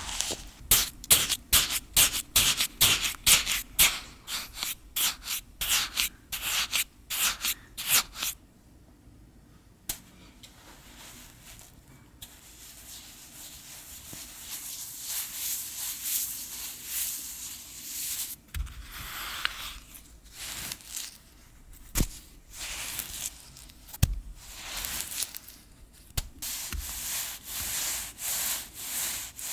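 Soapy hands rubbing together in quick, repeated strokes while washing. The rubbing drops to a faint hiss for about ten seconds in the middle, then picks up again, with a couple of small clicks.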